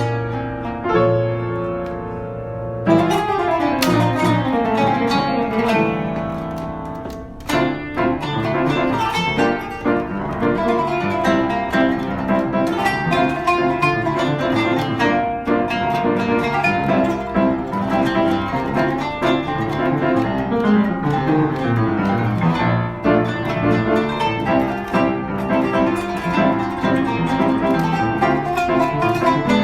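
Kanun and piano improvising together, Turkish plucked zither over piano. After a few seconds of held notes, fast runs of plucked notes come in about three seconds in and go on densely.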